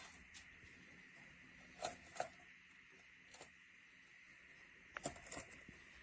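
Quiet room tone with a few faint, sharp clicks and taps at irregular times: one near the start, a pair about two seconds in, one a little past three seconds, and a cluster about five seconds in.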